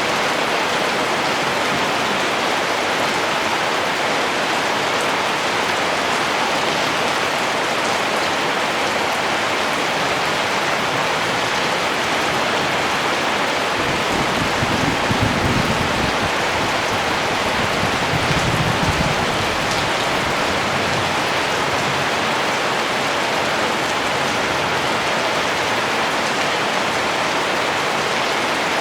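Steady rain falling, a dense, even patter. About halfway through, a low rumble swells for several seconds and fades.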